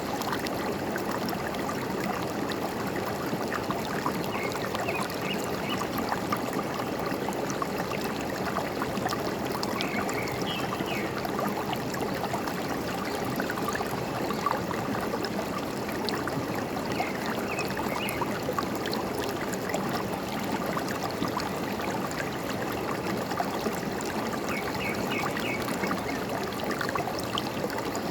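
Forest stream running steadily with a trickling, gurgling rush of water. A bird chirps a short series of quick high notes four times, about every seven seconds.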